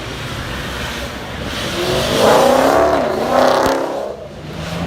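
A high-performance car engine revving hard as the car accelerates past. The engine note climbs, dips briefly and climbs again, loudest in the middle, then falls away about four seconds in.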